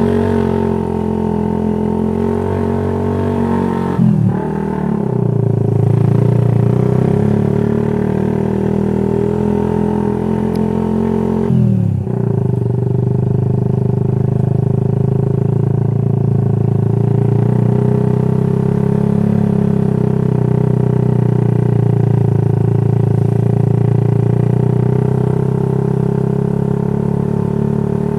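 Motorcycle with an aftermarket racing exhaust running at a steady cruise. Its engine note drops briefly and picks up again twice, about four and about twelve seconds in.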